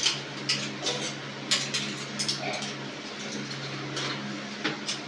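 Dishes and cutlery clinking and knocking against each other at irregular intervals, over a steady low hum.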